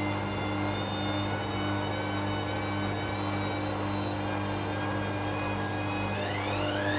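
Arçelik 5900E (Bauknecht-built) washing machine spinning after its second rinse: a steady motor whine over a low hum, then, about six seconds in, the whine starts rising steeply as the drum speeds up toward a faster spin.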